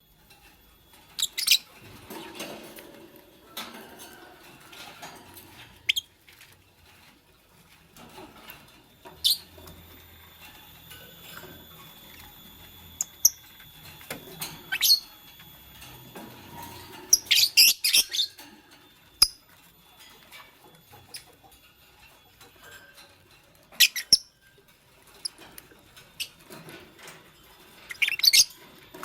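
Fischer's lovebirds give short, shrill chirps every few seconds, with a rapid burst of several about two-thirds of the way through. Between the calls there is soft rustling and scratching.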